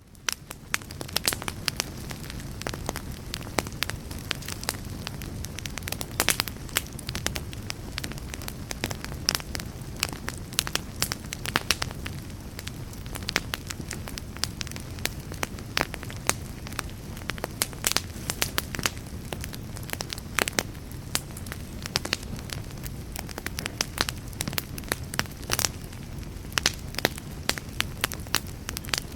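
A fire crackling: a steady low rush of flames with frequent sharp pops and snaps. It fades in quickly at the very start.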